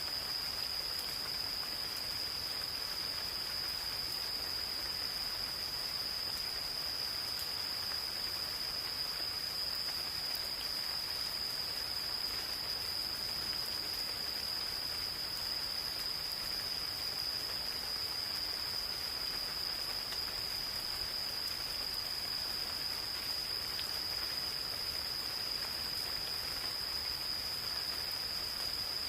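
Gentle rain falling steadily in a forest, with a few faint drop ticks, over insects singing one continuous high, unbroken note.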